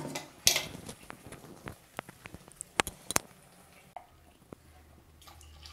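Thick carrot paste cooking in hot ghee in a kadai, giving scattered sharp pops and crackles with one louder crackle about half a second in. The pops stop about four seconds in, leaving a faint low hum.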